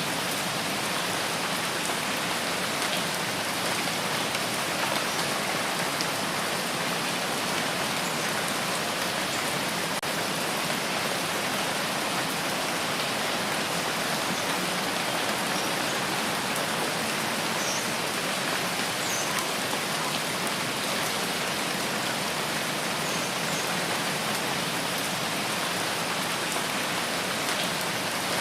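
Steady, even rainfall on foliage, with no let-up, and a few faint high chirps about two-thirds of the way through.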